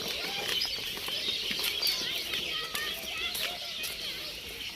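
Birds chirping: many short overlapping calls with scattered clicks over a steady outdoor background.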